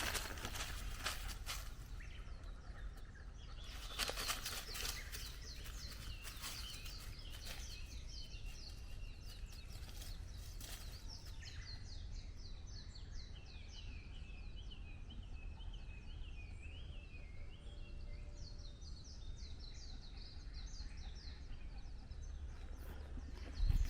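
Small songbirds singing in a forest, long runs of rapid repeated rising and falling notes through the middle, over a steady low rumble. A few footsteps crunch on the path at the start and again about four seconds in.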